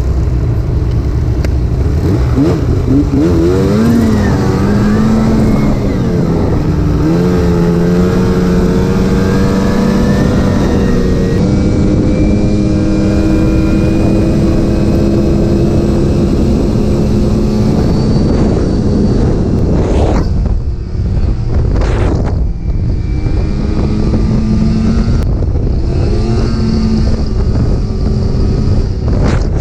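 Arctic Cat snowmobile engine running under throttle, rising in pitch as it accelerates over the first several seconds, then holding a steady drone. About twenty seconds in the throttle drops off briefly before the engine picks up again. Heavy wind rumble on the microphone.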